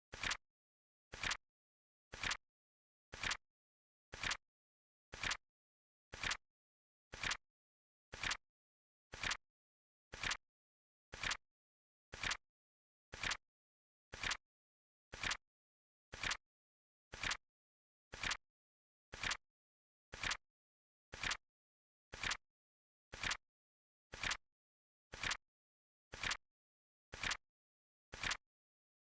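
Flip-clock sound effect: a sharp flap click once a second, evenly spaced, with silence between.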